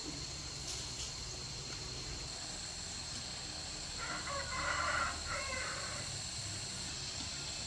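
A rooster crowing once, about four seconds in, the call lasting about a second and a half. A steady high-pitched whine runs underneath.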